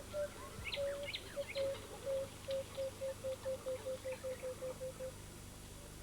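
A bird calling: a series of short, low notes on nearly one pitch that come faster and faster and stop about five seconds in. A few sharp, high chirps sound over it in the first two seconds.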